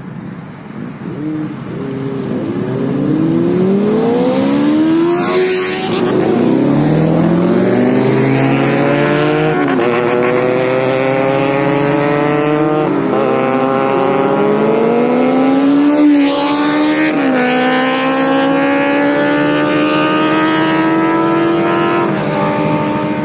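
Motorcycle engine accelerating hard, its pitch climbing and dropping back four times as it shifts up through the gears, then running at a steady speed.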